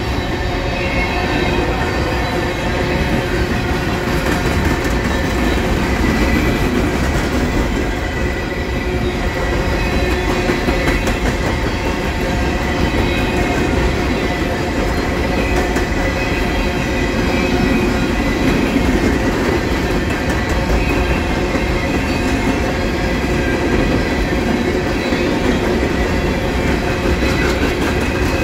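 Empty coal hopper cars of a CSX freight train rolling steadily past, a continuous rumble with the clickety-clack of the wheels on the rails.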